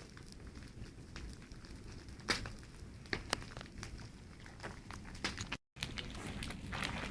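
Outdoor bonfire crackling, with a few sharp pops over a low rumble, and the sound dropping out briefly a little past halfway.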